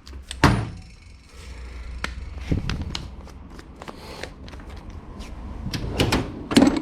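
Rustling and scattered clicks and knocks of hands and tools at work during a workshop cleanup, with sharper knocks about half a second in and near the end.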